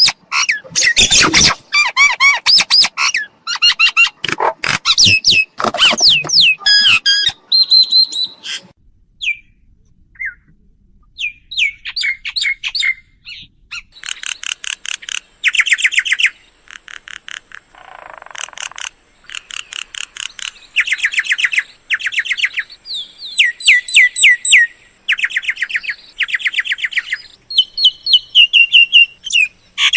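Myna calls: several seconds of dense, harsh chattering, then after a short lull a series of runs of rapid, scratchy repeated notes and whistles, each run a second or two long with short pauses between.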